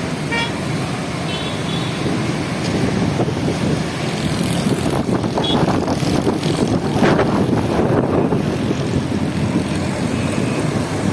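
Steady noise of road traffic, vehicles running along a road, with a few short sharper sounds about halfway through.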